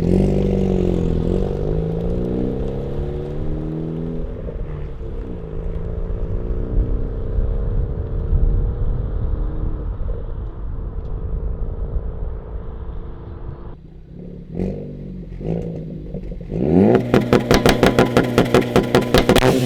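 Ford Focus ST's turbocharged 2.0-litre four-cylinder through an AWE Touring resonated exhaust, accelerating through the gears, its pitch rising and dropping back at each shift. About fourteen seconds in it falls to idle and is blipped twice. It is then held on the launch-control rev limiter, stuttering about five times a second.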